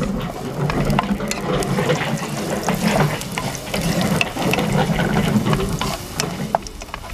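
Wooden spatula stirring and scraping chopped garlic in hot oil in a nonstick pan, with a light crackling sizzle of many small sharp clicks. Under it runs a low, steady hum.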